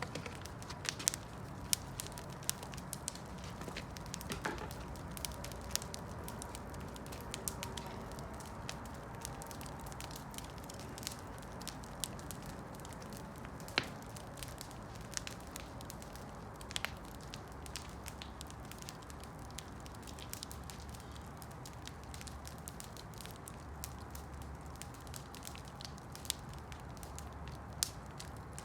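Wood campfire burning, a steady low rush of flame with frequent sharp crackles and pops from the burning wood, one louder pop about halfway through.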